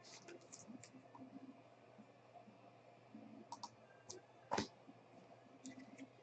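Faint clicks and light handling noise from trading cards being sorted and flipped, with one sharper click about four and a half seconds in.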